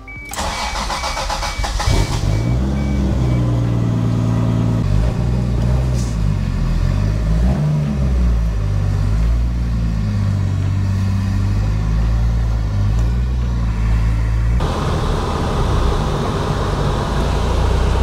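Car engines at low speed: a third-generation Toyota Supra's engine starts and runs with small rises and falls in revs as the car is moved. About three-quarters of the way through, the sound changes to a Subaru BRZ's flat-four running as it pulls in.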